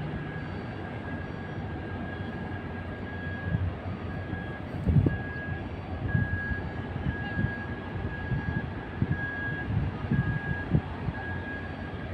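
Steady low mechanical rumble with a thin high tone pulsing on and off about once or twice a second, and irregular low thumps from about three and a half seconds in.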